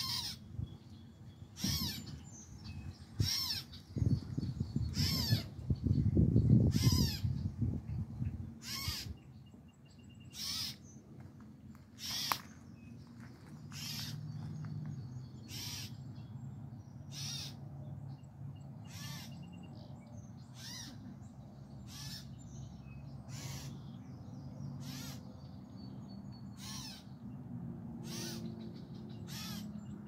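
A bird calling over and over, one short call about every one and a half seconds. A louder low rumble comes from about four to eight seconds in.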